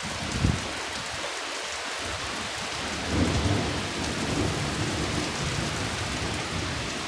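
Steady rain falling through a thunderstorm, with a brief knock just after the start and a low roll of thunder building about three seconds in and rumbling on for a couple of seconds.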